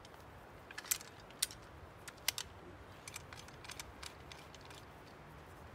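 Handling clicks and soft rustles from a black sheathed blade being taken out and turned over in the hands, with three sharper clicks about one, one and a half and two and a quarter seconds in.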